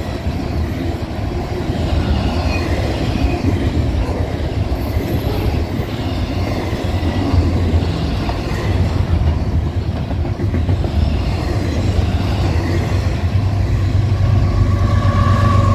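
Double-stack intermodal freight train passing at speed: a steady rumble and clickety-clack of well-car wheels over the rail, with faint high wheel squeal. Near the end it grows louder as a trailing diesel locomotive approaches.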